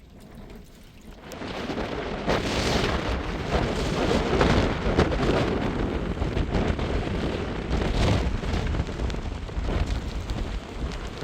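Heavy rain pouring in a storm, setting in about a second in and swelling and wavering, with a low rumble underneath.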